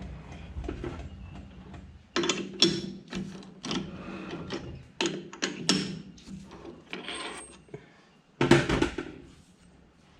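A run of irregular sharp knocks and clanks of metal parts and tools being handled at a metal lathe, loudest about two seconds in and near the end.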